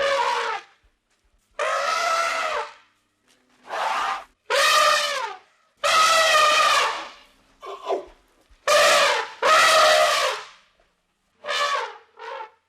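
An animal calling over and over: about eight loud, pitched calls, each up to a second and a half long, with short pauses between them.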